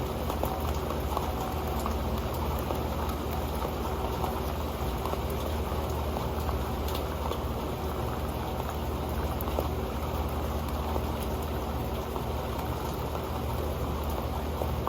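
Rain falling steadily on an old pan, a continuous patter of many small drop ticks.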